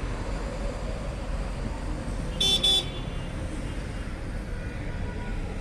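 Two short car-horn toots in quick succession about two and a half seconds in, over a steady rumble of traffic.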